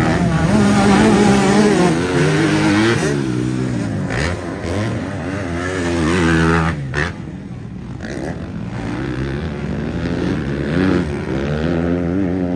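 Several motocross bikes racing past, their engines revving up and falling off in pitch through the gears and corners, overlapping one another.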